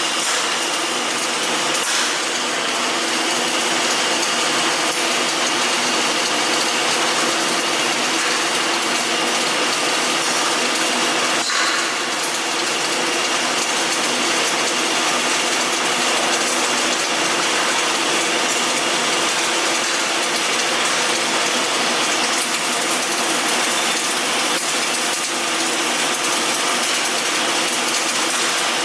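Electric arc welding: a steady, dense crackling from the welding arc, held without a break.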